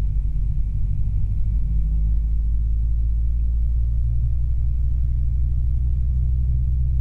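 Robinson R22 helicopter running on the ground: a steady low drone from its four-cylinder piston engine and turning rotors, held at about 75% revs during the pre-flight run-up checks.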